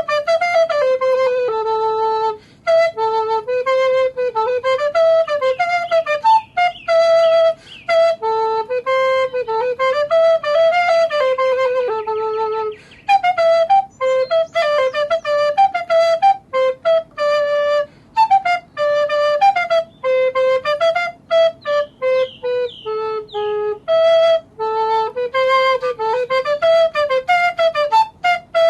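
Solo flute playing a flowing melody one note at a time, in phrases with short breaks between them.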